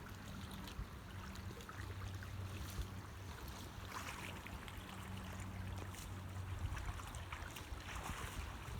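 Creek water sloshing and splashing as someone wades through it, with a low steady hum underneath.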